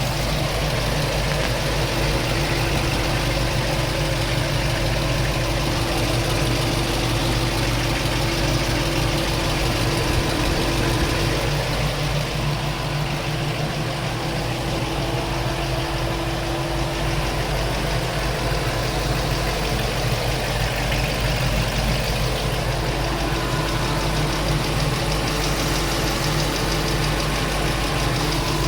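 LS V8 engine swapped into a K10 pickup, idling steadily with a rapid ticking over the engine note. The owner cannot tell whether the tick comes from the headers or the valve train.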